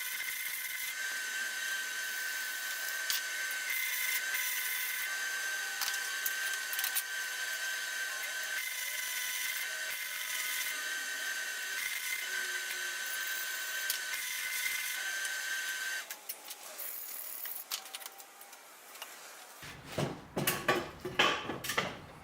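Electric arc welding on steel: a steady crackling hiss with a thin whine that stops about sixteen seconds in, followed by a few knocks and clatter near the end.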